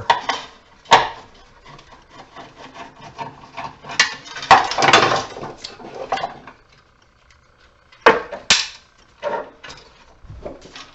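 Metal parts of an HID light fixture being handled and taken apart by hand: a series of sharp knocks and clanks, with a longer rattling scrape about four to five seconds in.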